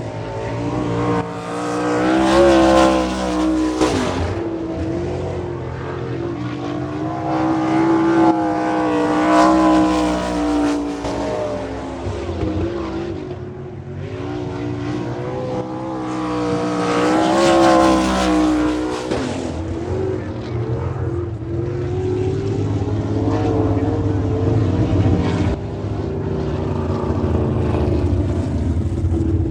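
Sprint car V8 engines running hard on a dirt oval during time-trial laps. The engine note rises and falls as the cars go around, swelling to its loudest several times as they pass.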